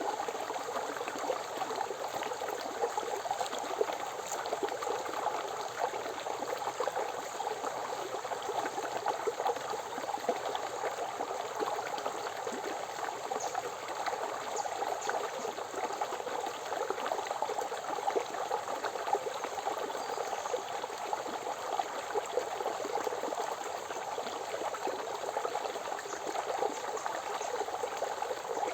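Forest river flowing, a steady babbling rush of water over stones.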